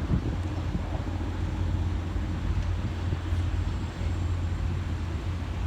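Diesel multiple unit engine running steadily with a low drone, with some wind noise on the microphone.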